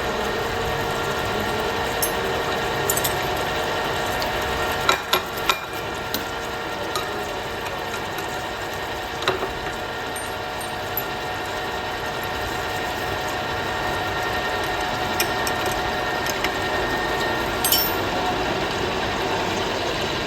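Workshop machinery running steadily with a constant hum, with scattered sharp metallic clicks and knocks, a quick cluster of three about five seconds in.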